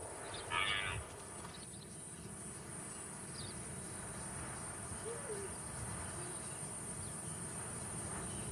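Steady, high-pitched chorus of night insects, with one short, louder call about half a second in.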